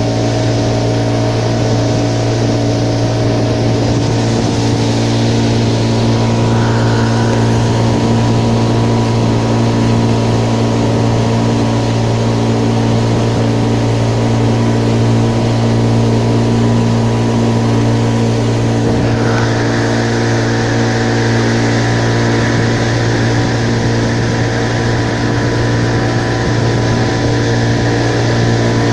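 Motorboat engine running at a steady, unchanging speed. About two-thirds of the way through, a higher hiss joins the engine note.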